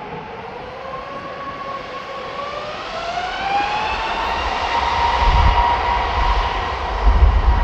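Jet airliner's engines on takeoff, a whine of several tones rising in pitch and then holding as the sound grows louder. A heavy low rumble comes in about four seconds in.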